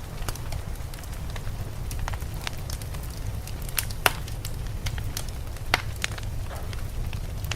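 Wood fire crackling in a fireplace: scattered sharp pops and snaps, the loudest about four seconds in, over a steady low rumble.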